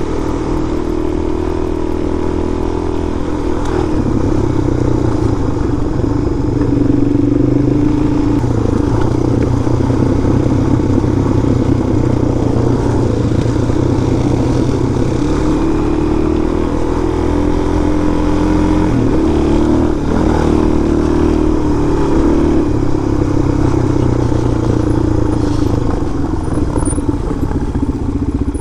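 Suzuki DR-Z400's single-cylinder four-stroke engine running under way on a dirt trail, its pitch rising and falling with throttle and gear changes.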